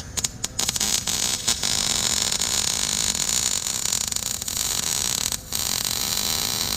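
Lincoln Electric wire-feed welder laying a flux-cored weld: the arc's continuous crackle, sputtering a few times as it strikes, then running steadily with one brief stop about five and a half seconds in.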